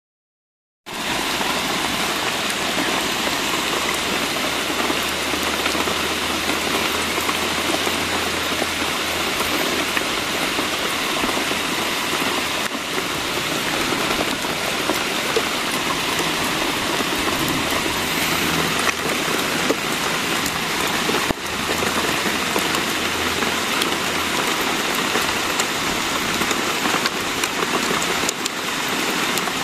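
Steady rain falling, starting about a second in after a moment of silence.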